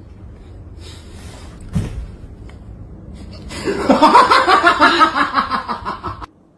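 A rapid, pulsing, laughter-like vocal sound, about four to five pulses a second, starts about three and a half seconds in and cuts off abruptly near the end. A single soft thump comes just before it, at about two seconds.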